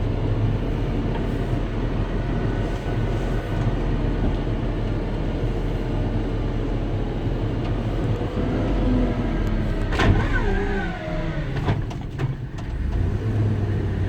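2006 GMC bucket truck's 8.1-litre gas V8 idling steadily, with a creaking glide and a few knocks about ten seconds in.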